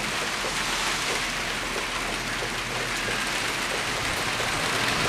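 Steady rain falling and pattering on surfaces, a constant even hiss.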